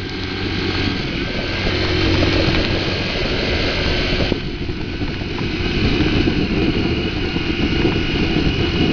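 Motorcycle running on the road with heavy wind rushing over the microphone; the hiss thins out suddenly a little over four seconds in.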